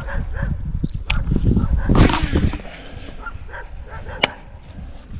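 Wind buffeting the microphone, a steady low rumble, with a louder noisy rush about two seconds in and a couple of sharp clicks.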